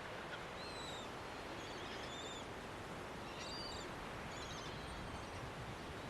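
Steady outdoor background hiss with faint, high bird chirps, four short bouts of calls spread through it.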